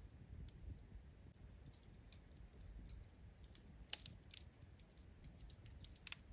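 Wood fire crackling faintly, with irregular small pops and a few sharper snaps about four seconds in and again near the end.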